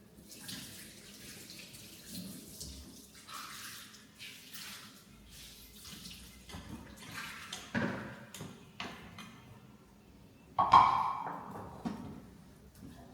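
Water splashing and sloshing in irregular bursts, as when washing something by hand in a basin, with one sudden, much louder splash or knock about three-quarters of the way in.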